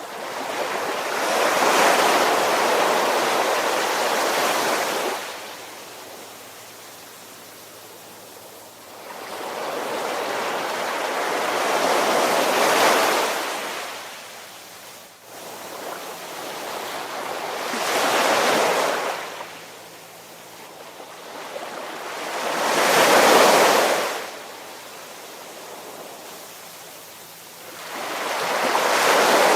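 Ocean surf: waves wash in and recede in about five swells a few seconds apart, each rising to a hiss and falling back to a quieter lull.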